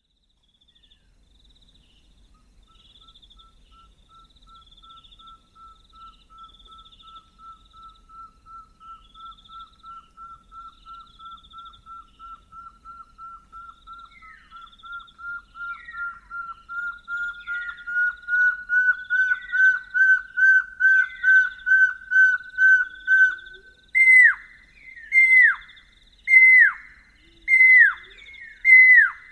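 Pearl-spotted owlet pair duetting: a long run of short piping notes, about two a second, that grows louder and climbs slightly in pitch, then gives way near the end to loud downslurred whistles about a second apart. Fainter, higher-pitched phrases from the second, more distant bird run alongside.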